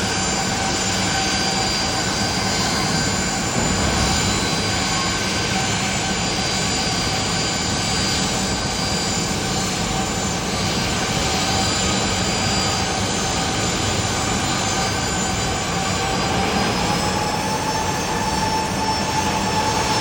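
Boeing 737-800's CFM56-7B turbofan jet engines running steadily: a constant rushing noise with a whine of several steady tones. The whine edges up in pitch near the end.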